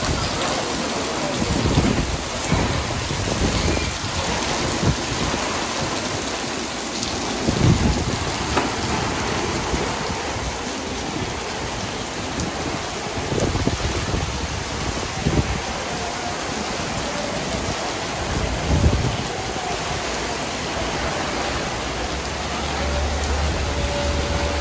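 Heavy rain pouring down onto paved pavement and a wet street, a steady hiss with a few brief low thumps mixed in.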